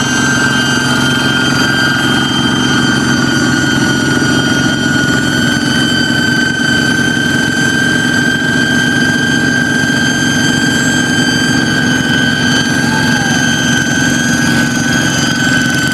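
Kubota hand tractor's diesel engine running steadily, its fast chug overlaid by a loud, steady high-pitched whistle: the jet-fighter-like sound the tractor is modified to make.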